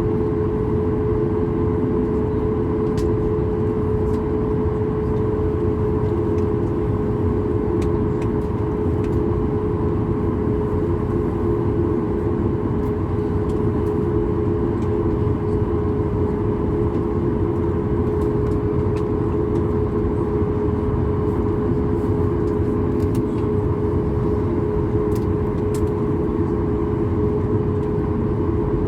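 Boeing 737 MAX's CFM LEAP-1B jet engines heard from inside the passenger cabin, running steadily as a loud, even rumble with a strong droning hum tone.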